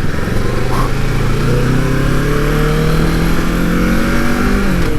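Kawasaki motorcycle engine pulling under acceleration, its pitch rising steadily for about four seconds, then dropping suddenly near the end as the revs fall, over a steady rush of wind noise.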